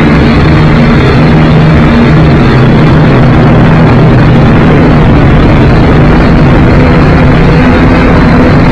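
Syma X5C quadcopter's motors and propellers buzzing steadily and loudly under a heavy rush of wind noise, the hum's pitch shifting a little now and then.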